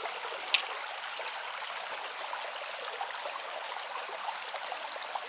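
Creek water flowing and trickling, a steady babble, with one short click about half a second in.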